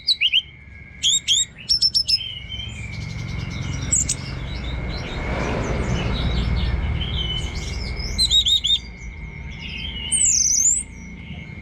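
Orange-headed thrush singing a varied song of quick, sharp whistled notes and glides in rapid clusters. A steady high whine runs underneath, and a low rumble swells in the middle.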